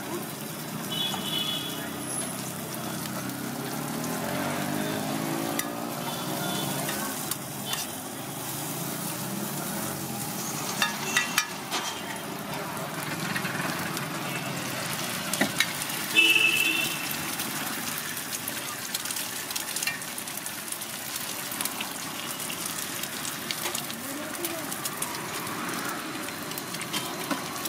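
Sliced onions and then eggs frying on a large flat iron griddle, with a steady sizzle. A few sharp metal clinks stand out, the loudest around the middle as the eggs are poured on.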